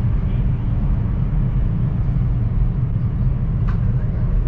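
Steady low rumble of a Chinese high-speed train running at speed, heard from inside the passenger cabin. A single brief click sounds near the end.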